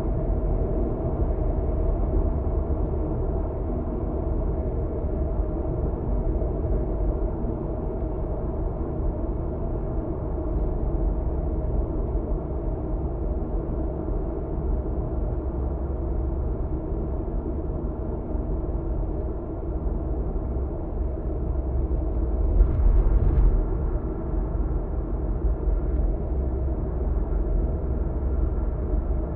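A car cruising on an expressway: steady tyre and engine rumble. About three quarters of the way through there is a brief louder rush.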